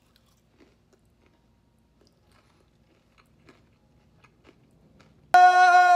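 Faint crunching and chewing of a mouthful of crisp fried fish nugget. Near the end, a loud, steady held note starts suddenly.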